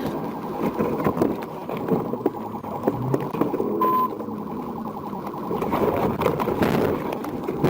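Police car siren sounding over engine and road noise, with a short beep about four seconds in.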